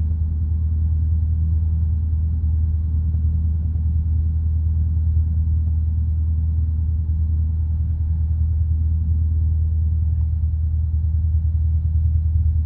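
Single-engine light aircraft's piston engine idling steadily on the ground, a constant low drone heard from inside the cockpit.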